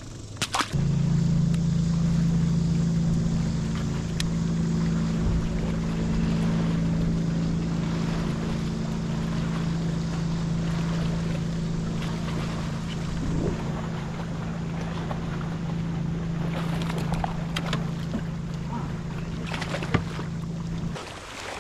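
Electric trolling motor on a fishing kayak switched on under a second in, running with a steady hum, then cutting off shortly before the end.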